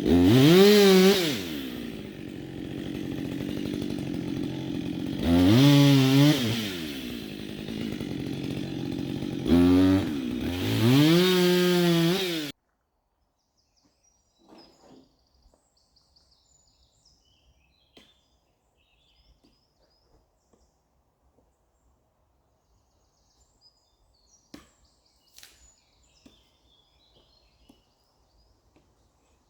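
Two-stroke chainsaw revving up to high speed and dropping back to idle three times. About twelve seconds in, the sound cuts off suddenly, leaving near silence with a few faint ticks.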